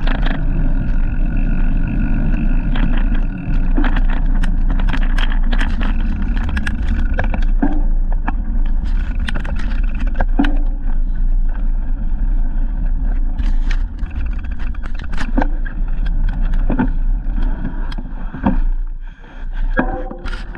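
Wind buffeting the microphone and road rumble on a moving bike, cut through by frequent sharp clicks and knocks as the bike rattles over the surface. It quietens briefly about nineteen seconds in.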